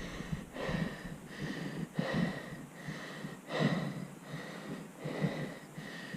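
Heavy, rhythmic breathing of an exerted mountain biker, about three breaths every two seconds, with a faint whistle in each breath.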